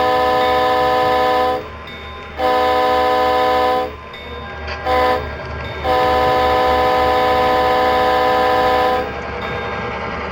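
Train horn sounding the grade-crossing signal: two long blasts, a short one and a final long one, over the rumble of the running train. The long-long-short-long pattern is the standard warning for a road crossing.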